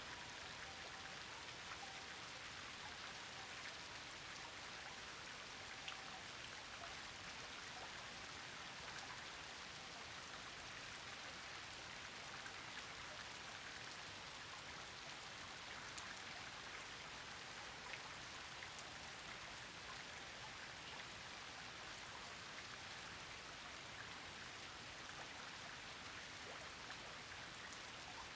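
Steady rain falling, an even patter with scattered single drops ticking through it. A faint, broken high tone comes and goes during the first few seconds.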